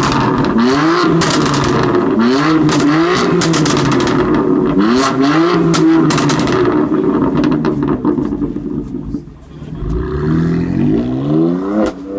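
BMW M4 Competition's 3.0-litre twin-turbo straight-six, through its M Performance exhaust, revved in repeated throttle blips about every two seconds, with crackles and pops as each rev drops. After about seven seconds the revving eases off, then picks up again with a few quicker blips near the end.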